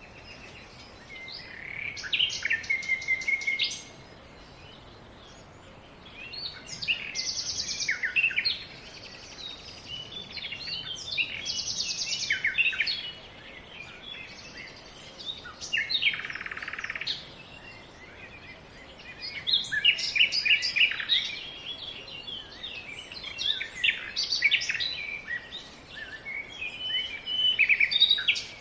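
Songbirds singing: phrases of high chirps and rapid trills lasting a second or two, repeated every few seconds with short pauses between.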